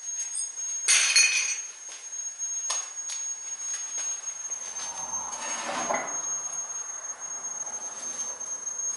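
Metal tools clinking and tapping, with a loud metallic clatter about a second in and a few sharper clicks after, over a steady high-pitched whine.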